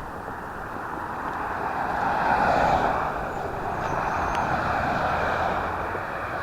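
Outdoor vehicle noise: a rushing roar that swells about two seconds in and again around four to five seconds.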